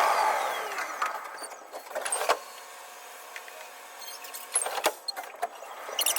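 Tokyu 5050 series electric train, heard sped up to double speed. Its running noise dies away as it comes to a halt. While it stands there are a few sharp clicks and a faint steady hum, and near the end the running noise builds again as it pulls away.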